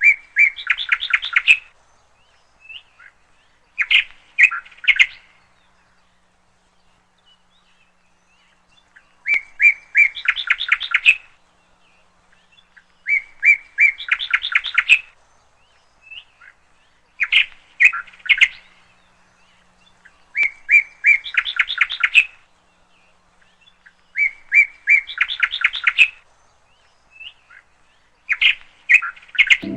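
A songbird singing the same short phrase over and over: each phrase is a quick run of sharp, high notes, repeated every three to four seconds with one longer pause.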